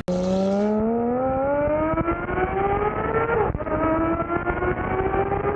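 Car engine accelerating hard under load, its pitch climbing steadily, then dropping briefly at an upshift about three and a half seconds in before it climbs again.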